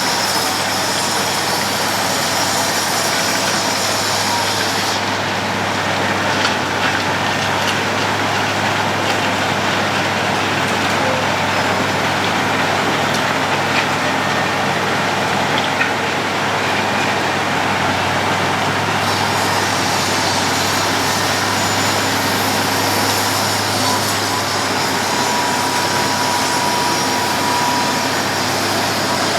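Road planer (cold milling machine) at work, a steady engine drone under a dense, even noise of the machine milling the road surface. The highest part of the hiss eases off for a stretch in the middle.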